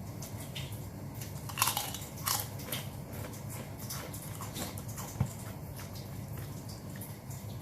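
Close-miked biting and chewing of grilled chicken, with two louder crunchy bites about one and a half and two and a quarter seconds in, then a run of small wet mouth clicks.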